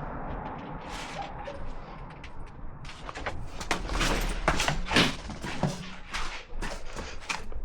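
Handling and fitting noises: rustling at first, then from about three seconds in a quick run of sharp knocks and clacks, loudest a little past the middle.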